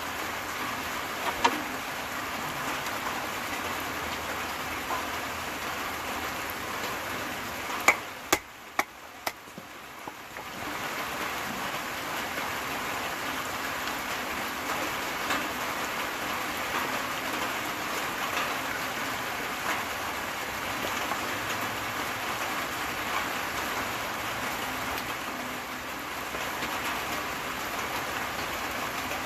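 Steady rain falling, an even hiss of drops. About eight seconds in it briefly drops away for a couple of seconds, with a few sharp knocks, then resumes.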